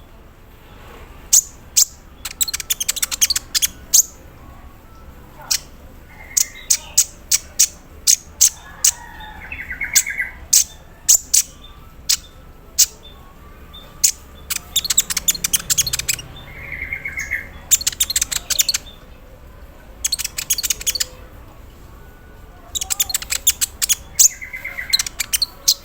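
A kolibri ninja (konin) sunbird singing in bursts: sharp high chips and fast runs of ticking rattles, the imitated 'embroidery machine' sound, with a few short whistled notes between them.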